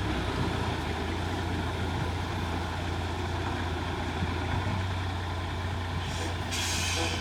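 Heavy diesel engine running steadily with a low drone. A short hiss sounds near the end.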